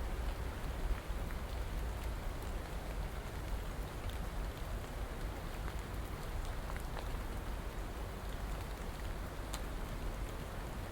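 Steady rain falling, an even hiss with scattered small drop ticks and a low rumble underneath.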